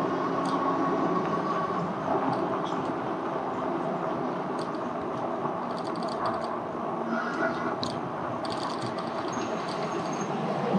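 Riding noise of a Lectric e-bike moving along a road: a steady rumble of tyres and wind, with scattered light rattles and clicks.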